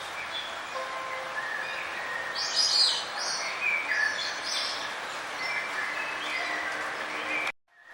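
Several songbirds chirping and warbling in short overlapping phrases over a steady hiss of background noise. The sound cuts out suddenly for a moment near the end, then the chirping resumes.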